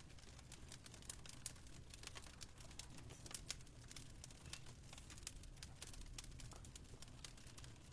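Fireplace fire crackling faintly, with many irregular small snaps and pops over a low steady rumble.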